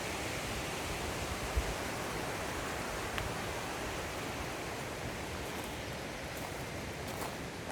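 Rushing water of a valley stream, a steady even rush.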